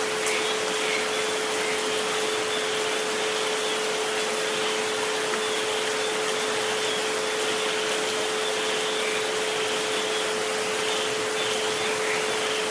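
Steady rain hiss with sustained pure sine tones of 432 Hz and 528 Hz held underneath. There are a few faint ticks from individual drops.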